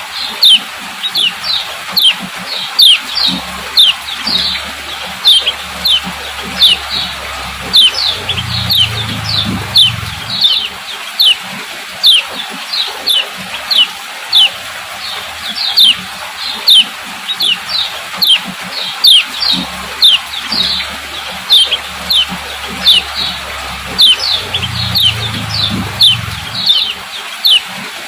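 Female kecial kuning giving a steady series of short, sharp 'ciak' chirps, about one and a half a second, each a quick downward sweep. It is the female's call, used to stir male birds into singing. A faint low hum comes in twice.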